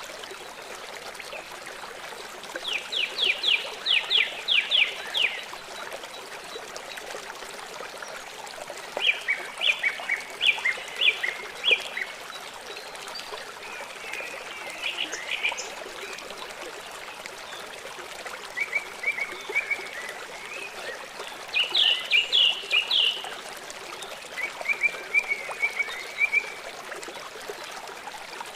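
Small songbird singing short, rapid trilled phrases of quick repeated notes, about six phrases a few seconds apart, over the steady rush of running water.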